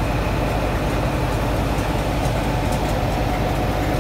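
Locomotive-hauled test train, a Class 43 HST diesel power car coupled with Class 91 electric locomotives, running past close by. A steady diesel engine rumble with the noise of wheels on the rails, holding at an even level throughout.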